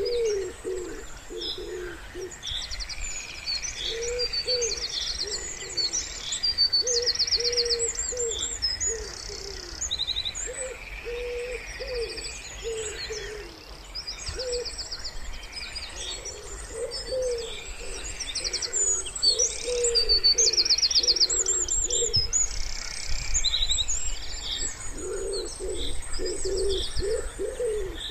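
Wood pigeons cooing in repeated low phrases, with small songbirds chirping and trilling high above them.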